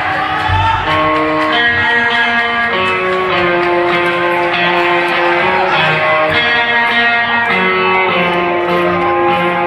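Guitar-led live band music: a melody of held notes played one after another.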